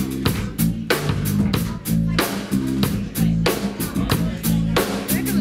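Electric blues-rock band playing live, with electric guitar and bass over a drum kit keeping a steady beat.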